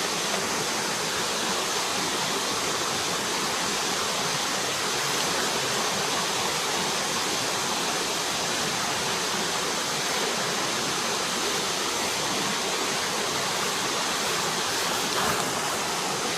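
Flowing forest stream: a steady, even rush of water.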